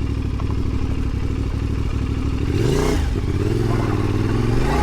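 Adventure motorcycle engine running under way. About halfway through the revs climb, then hold higher, and they drop briefly near the end as if for a gear change.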